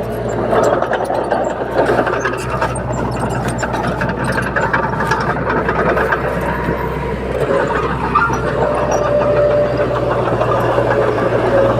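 Bulldozer diesel engine running steadily under load, with repeated metallic clanking and rattling from the tracks and blade.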